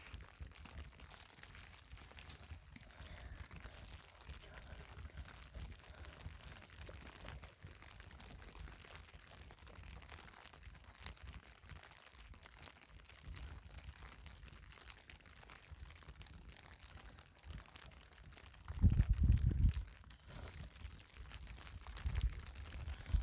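Wind buffeting the microphone: a low rumble with a stronger gust about four-fifths of the way through.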